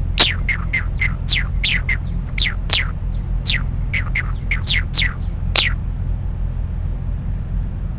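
WaveNet-generated birdsong played back: a quick run of about eighteen high chirps, each sweeping downward in pitch, ending about six seconds in. The synthetic song sounds a bit chattering, over a steady low hum.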